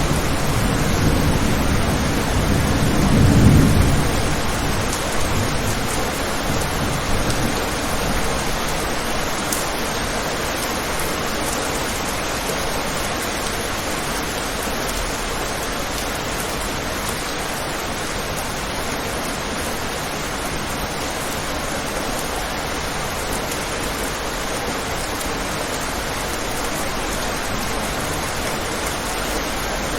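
Steady heavy rain hiss. A low thunder rumble swells and fades away in the first few seconds.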